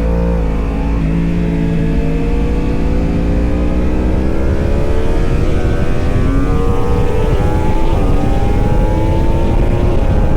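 Racing superbike engine accelerating, its pitch climbing slowly and steadily, with a brief drop about seven seconds in before it climbs again. A heavy low rumble of wind or road noise runs underneath.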